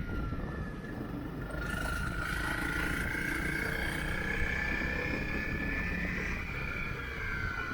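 Motorcycle running along at riding speed, its high whine climbing slowly and dipping again near the end, over a steady low rumble of wind and road.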